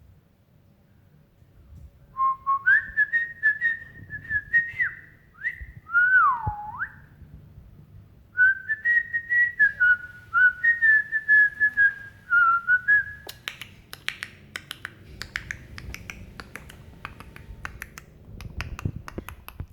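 A person whistling a wavering series of short notes with pitch glides, in two phrases, then from about two-thirds of the way through a run of rapid sharp clicks.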